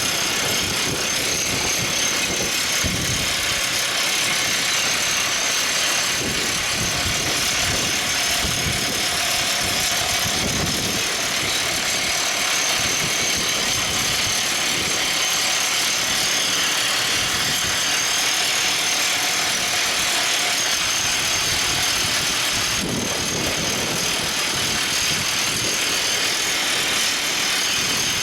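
Everdigm ECD45E top hammer drill rig running: a steady, loud mechanical din of engine and machinery, strongest in the high range, with a slight change in its texture about 23 seconds in.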